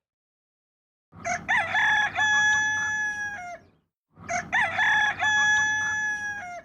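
Rooster crowing twice, the same cock-a-doodle-doo call heard two times in a row, each ending in a long held note.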